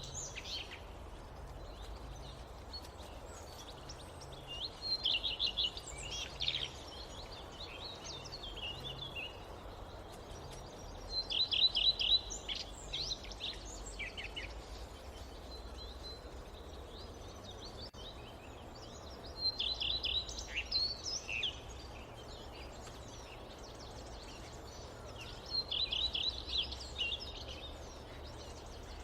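A songbird singing a short phrase of quick high notes, repeated every six to eight seconds, over a steady low rush of forest ambience.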